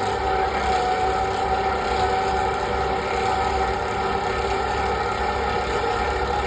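Century-old steam-powered clog-carving copy lathe running at full power, its fast-spinning blade cutting the outside of a wooden clog blank as it follows the mold. A loud, steady machine drone with a constant high whine over it.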